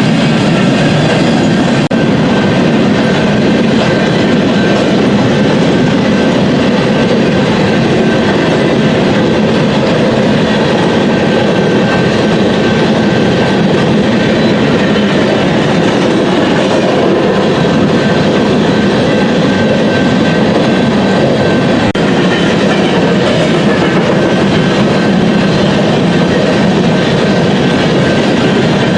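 BNSF freight train rolling past, its wheels clacking over the rail joints in a loud, steady run of passing cars.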